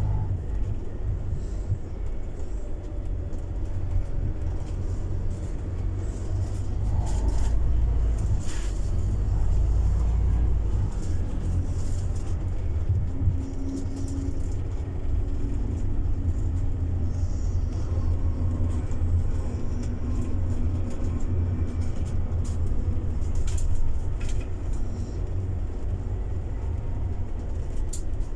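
Scania city bus driving: a steady low engine and road rumble with shifting engine tones, and a few brief clicks or rattles.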